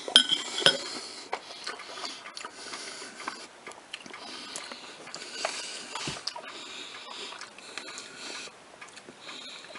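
A person chewing bites of prickly pear (cactus fruit) flesh and seeds, with wet mouth clicks and breaths through the nose. Scattered light clicks and a few soft knocks throughout, the loudest in the first second.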